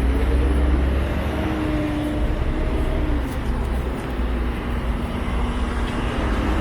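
Subway train running in the station: a steady, heavy low rumble with a faint hum above it.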